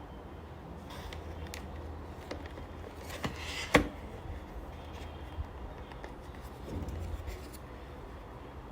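Light handling noise: a few short clicks and scrapes, one sharper click a little before halfway, over a steady low hum.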